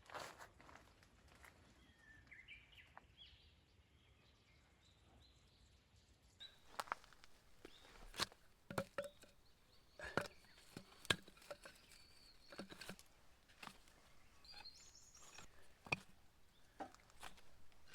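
Quiet outdoor ambience with a few faint high chirps, then scattered sharp clicks and knocks from about six seconds in.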